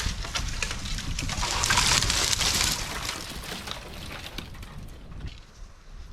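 Rustling and crunching with many small sharp cracks, loudest about two seconds in and fading after, over a low wind rumble on the microphone.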